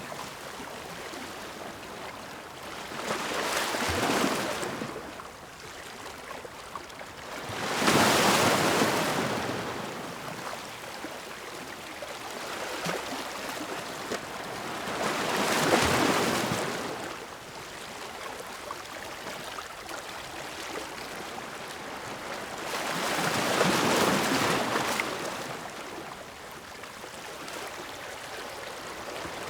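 Ocean waves breaking: four surges of surf over the stretch, each building and falling away, with a quieter steady wash of water between them.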